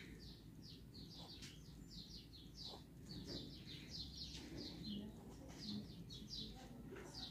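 A small bird chirping faintly in the background, a steady run of short, falling chirps, several a second.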